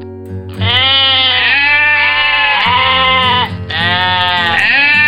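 A sheep bleating: two long, wavering bleats. The second starts about three and a half seconds in.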